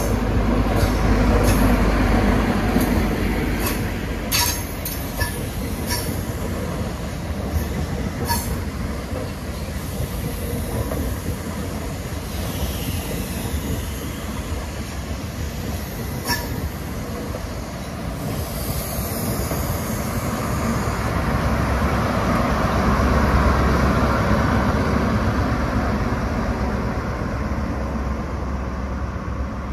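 CrossCountry InterCity 125 high-speed train passing through, with a Class 43 diesel power car at each end. The leading power car's engine and wheel rumble come first, then the coach wheels click sharply over rail joints, several times in the first eight seconds. The rear power car brings a second loud rise a little past twenty seconds in, and the sound then fades as it draws away.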